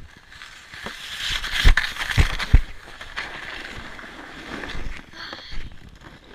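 Someone sliding down a packed snow slide: a scraping rush over the snow that builds about a second in, with three thumps in quick succession about two seconds in, then dies away.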